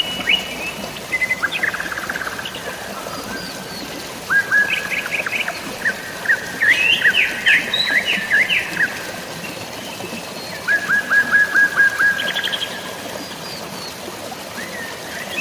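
Songbirds singing in a series of short phrases of quick, repeated chirps and sweeping notes, busiest from about 6 to 9 seconds in and again around 11 seconds. Underneath is a steady hiss of falling or running water.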